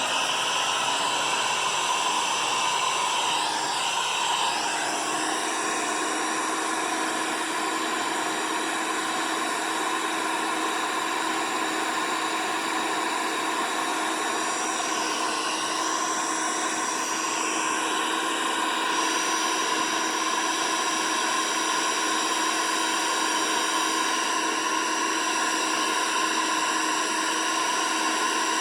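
Sun Joe 15-amp electric wood chipper running with a steady motor whine over a rushing noise, its pitch stepping up slightly about five seconds in.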